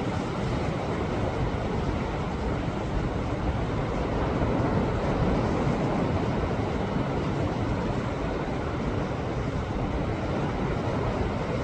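Sea waves surging against a rocky shore: a steady low rush of surf that swells slightly about five seconds in.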